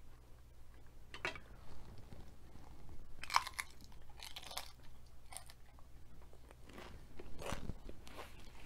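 A cheese-sauced tortilla-chip nacho being bitten and chewed, with crisp crunches. The loudest burst of crunching comes about three and a half seconds in, and more follows around five seconds and near the end.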